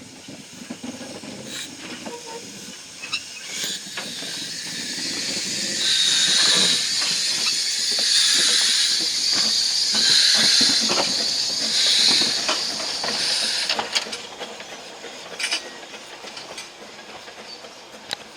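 Narrow-gauge steam locomotive letting off steam with a loud hiss that swells for several seconds and then dies away, with scattered metallic clanks and clicks around it.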